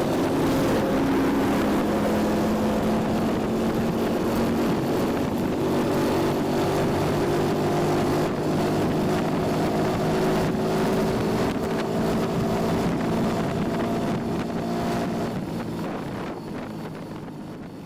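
Yamaha Junoon motorcycle engine running steadily while cruising, with wind rushing over the microphone. The sound fades out over the last few seconds.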